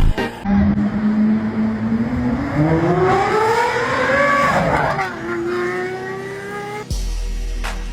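V12 supercar engine accelerating hard, its pitch climbing steadily for about four seconds. The pitch drops suddenly at an upshift about five seconds in, then rises again.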